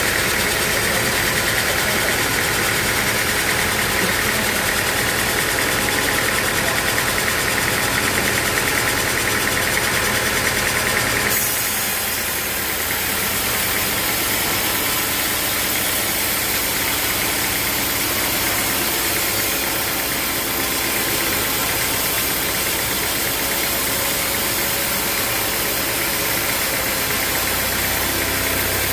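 Sawmill machinery running steadily with a machine hum; about eleven seconds in the sound changes abruptly, a higher-pitched band of noise dropping away, and the machine keeps running.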